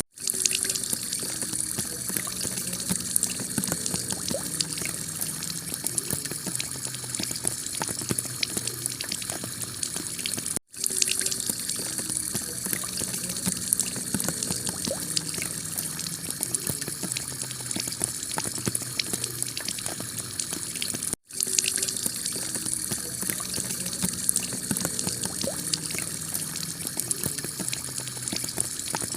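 Heavy rain on a clay-tile roof: a steady hiss of downpour full of small drop ticks. It cuts out for an instant twice, about a third and two-thirds of the way through.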